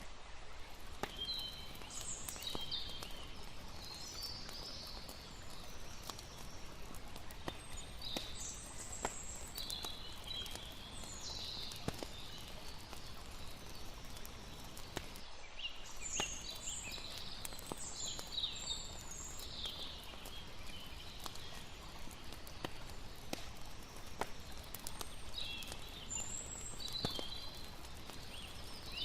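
Layered night campsite ambience: a campfire crackling with sharp scattered pops over a steady hiss, while high chirping calls come and go in short clusters.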